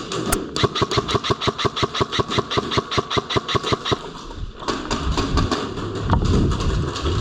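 Airsoft electric gun (AEG) firing one long full-auto burst, a rapid, even string of shots lasting about three and a half seconds.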